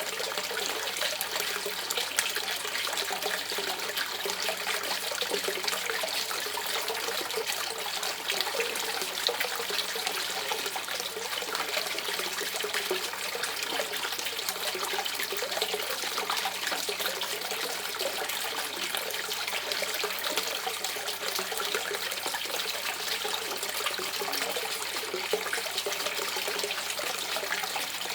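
Shallow river water running and gurgling over stones, a steady bubbling trickle with small splashes.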